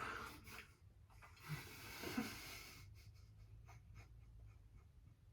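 Faint breathing while chewing a mouthful of jelly beans, with one long breath out about a second and a half in and a few small mouth clicks after it.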